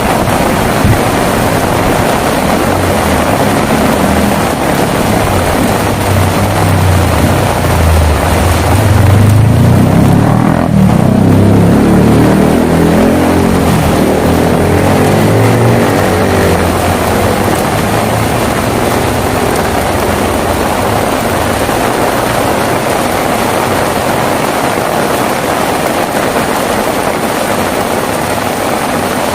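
Steady heavy rain with a long low roll of thunder that builds over several seconds, is loudest about ten seconds in, then slowly rumbles away.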